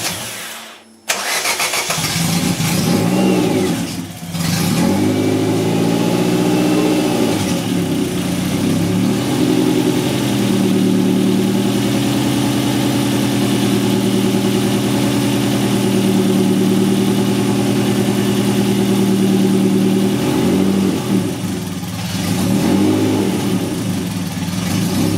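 Caterham 310S's 1.6-litre Ford Sigma four-cylinder engine running on its first start. It is blipped up and down through the first several seconds, holds a steady fast idle for about ten seconds, then takes a few more blips near the end.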